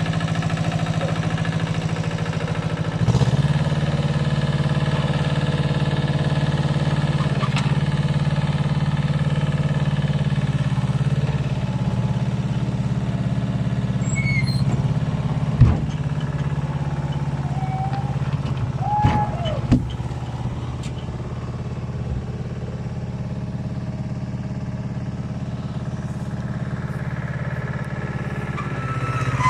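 Tractor engine running steadily under load, picking up slightly a few seconds in, with a single sharp knock about halfway through and a few brief squeals shortly after.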